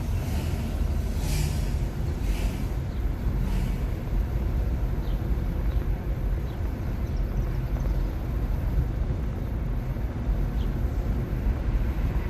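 Steady road and tyre rumble heard inside the cabin of a 2021 Nissan Leaf electric car driving along, with no engine sound, and a few brief faint hissing swells early on.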